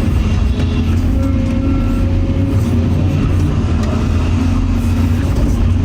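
Excavator's diesel engine running steadily, a loud low drone with a few faint knocks over it.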